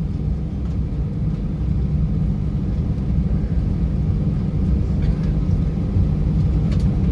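Steady low cabin rumble of an Airbus A320-212 taxiing toward the gate with its engines at idle, heard from inside the cabin, with a couple of faint clicks near the end.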